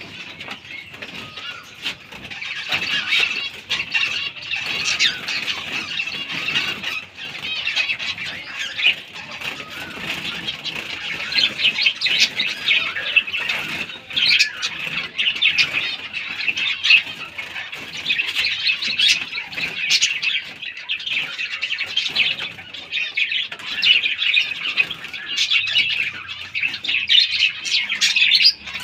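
A flock of captive finches chattering, with many short high chirps overlapping without pause.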